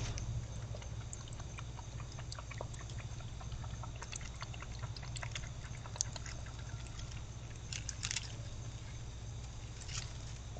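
Opossum drinking from a water bowl: irregular small wet clicks and ticks of lapping and chewing, a little louder about six and eight seconds in, over a steady low hum.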